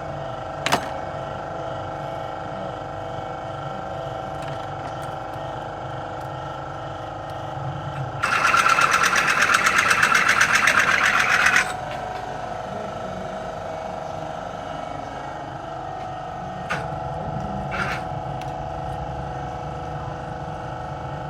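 A car engine running at a steady idle. About eight seconds in, a loud, fast mechanical rattle starts suddenly, lasts about three and a half seconds and stops abruptly. A few single knocks come near the start and near the end.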